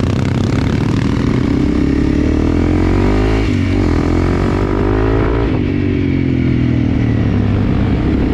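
Enduro motorcycle engine running under way. Its revs climb and then drop sharply twice, then hold roughly steady.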